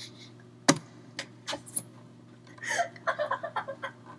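A sharp knock about two-thirds of a second in, then a few softer clicks, followed by stifled, snickering laughter over a faint steady hum.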